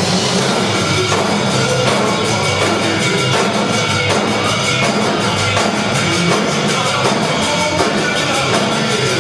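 Music: a drumline playing rapid drum patterns over a recorded rock-and-roll song track.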